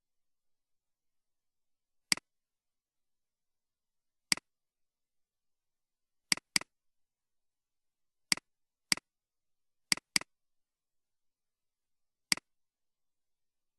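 Computer mouse button clicking nine times at uneven intervals, each click a sharp snap and a softer release, two of them in quick pairs, with dead silence between.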